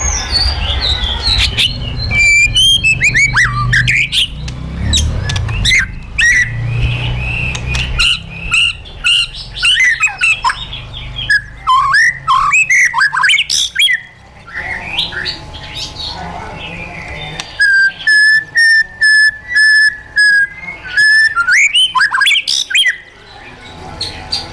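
White-rumped shama singing a rapid, varied song of whistled glides and harsh chatter notes, with one long level whistle about three quarters of the way through. A low rumble sits under the first third.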